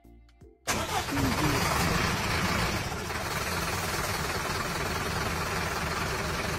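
Steady engine-like rumble with a hiss. It starts abruptly about a second in, after a brief near-silent gap, and keeps an even level.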